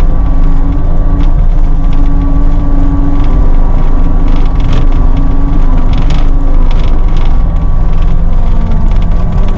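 Cat 259D3 compact track loader's diesel engine running steadily under load with a steady high whine over it, while scattered clanks and rattles come from the machine working over big chunky rocks.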